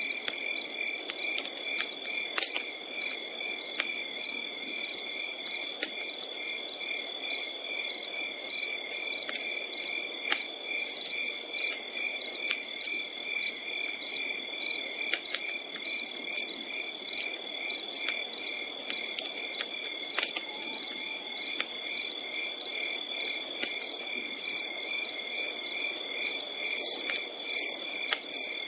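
Crickets chirping in a steady rhythm, about two chirps a second over a continuous high trill, with sharp pops and crackles from a campfire scattered throughout.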